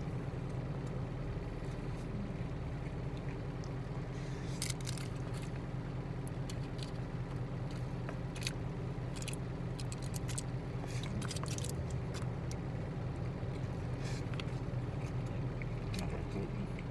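Steady low hum of an idling truck engine heard inside the cab, with scattered small clicks and chewing sounds from eating a boxed lunch.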